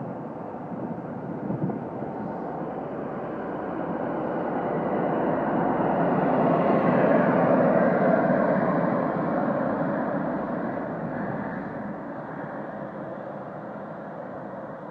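High Speed Train (InterCity 125) moving past on the rails. The running of its coaches builds to the loudest point about halfway through, as the rear Class 43 diesel power car goes by, then fades as the train draws away.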